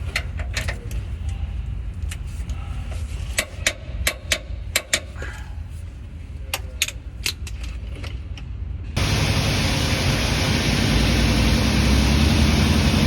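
Scattered sharp metallic clicks over a low rumble. About nine seconds in, a loud steady engine noise starts abruptly.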